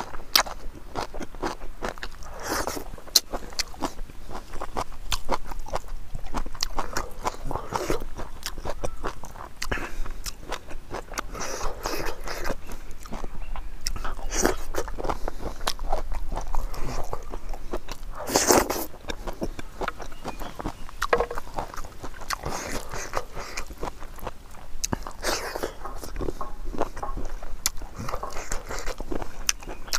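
Close-miked eating: a person biting and chewing spicy pig trotter pieces and leafy greens, with wet chewing, crunching and many sharp mouth clicks in an irregular stream.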